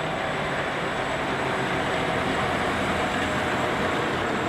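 Large tracked tractor's diesel engine running steadily under load while pulling a tillage implement through the field, a continuous even machinery rumble with no change in pitch.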